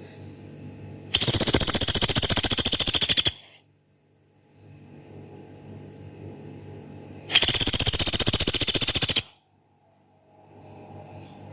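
Pelatuk beras woodpecker giving two long, harsh, rapid rattling calls, each about two seconds, the first about a second in and the second about two-thirds through.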